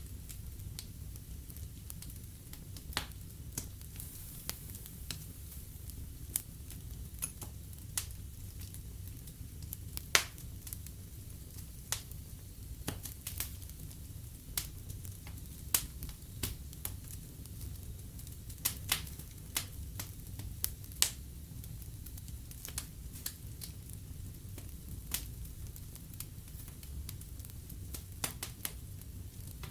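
Wood fire burning in a fireplace: a steady low rumble of flames with irregular sharp crackles and pops, several a second, one loud pop about a third of the way in.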